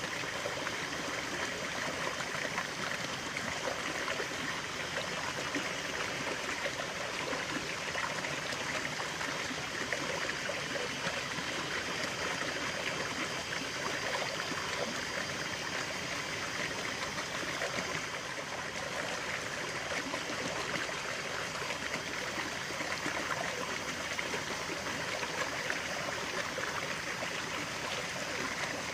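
Natural running water: a stream flowing and trickling steadily, with no pauses.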